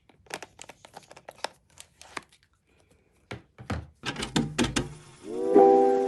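A quick, irregular run of light clicks and taps, with a pause in the middle, then piano music fading in near the end.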